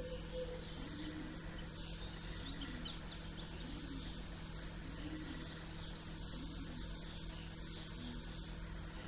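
Small birds chirping and twittering in quick, repeated calls, over a steady low hum.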